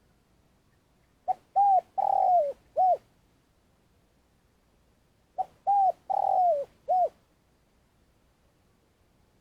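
Spotted dove cooing: two identical phrases about four seconds apart, each of four clear notes, the third held longest and sliding down in pitch before a short final note.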